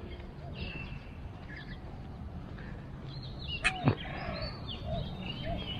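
Birds chirping and calling over steady outdoor background noise, with a brief louder double sound about two-thirds of the way through.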